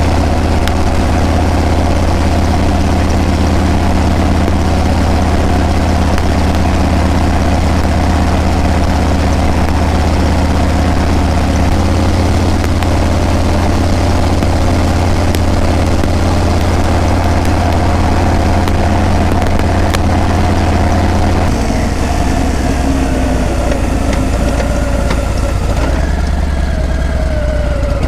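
Harley-Davidson Breakout V-twin motorcycle running under way with a steady exhaust note. The note steps down to a lower pitch about twelve seconds in and again about twenty-one seconds in, then wavers up and down near the end.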